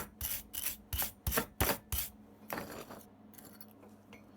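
Brush scrubbing a freshly brazed tube joint to clean off the scale, in quick strokes about three a second that stop a little over halfway through.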